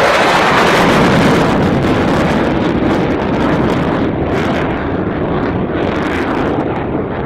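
Military jet passing low and fast overhead. Its engine roar is loudest at the start and slowly fades away, with wind buffeting the microphone.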